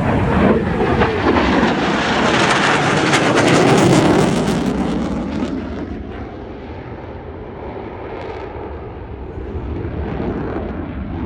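Aircraft making a low pass: its engine noise is loud and building to a peak about four seconds in, then fading away as it moves off.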